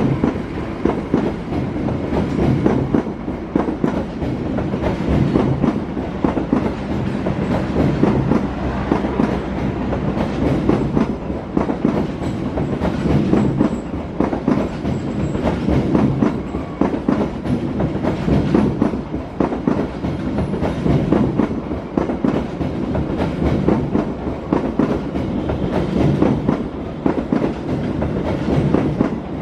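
A long passenger train's coaches run through the station without stopping, with a steady heavy rumble and wheels clattering over the rail joints.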